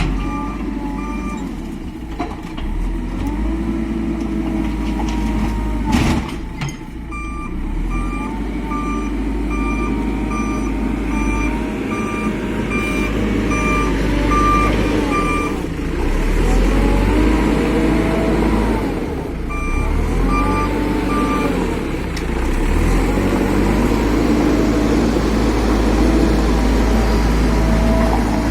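Heavy diesel machine's reversing alarm beeping in spells of steady repeated beeps over its engine running and revving up and down. A single sharp knock about six seconds in.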